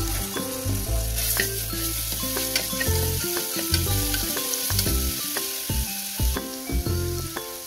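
Ginger-garlic-pepper paste frying in hot oil: a steady sizzle.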